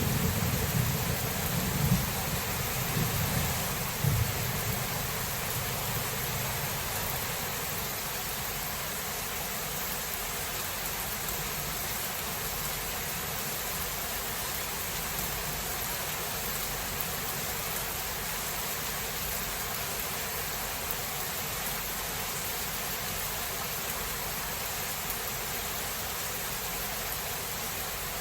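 Steady rain, with the low rumble of thunder dying away over the first few seconds.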